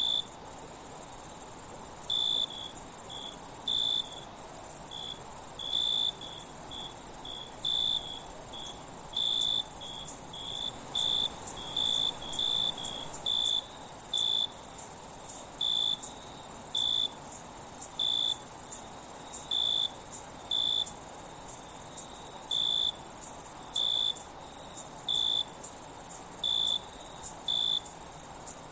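Night insect chorus: a steady, very high-pitched cricket trill, with short, lower chirps repeating about once or twice a second at uneven intervals. A few brief dropouts break the sound for an instant.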